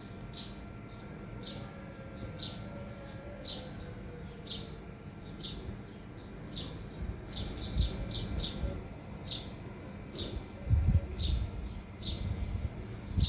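A small bird chirping over and over, short high chirps about once a second, coming in a quicker run partway through. Low rumbles break in twice near the end and are the loudest sounds.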